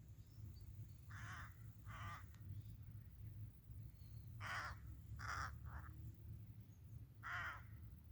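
A crow cawing: six harsh caws in three groups (two, then three, then one), over a steady low rumble.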